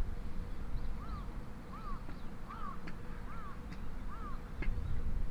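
A bird calling five times in an even series, one arched note about every 0.7 s, over a low outdoor rumble.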